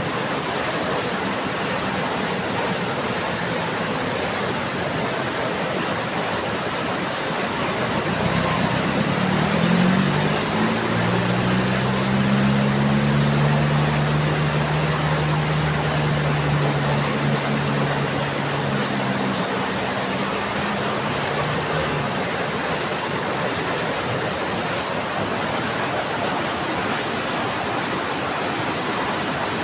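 Heavy rain falling steadily. A low engine hum comes in about eight seconds in, holds for several seconds and fades out around twenty seconds in.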